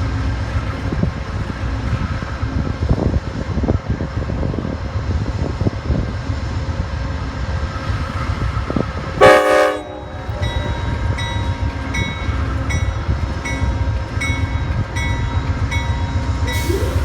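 Diesel locomotive idling with a steady low rumble, then one short horn blast about nine seconds in. After the blast its bell rings at an even pace of a little under two strokes a second.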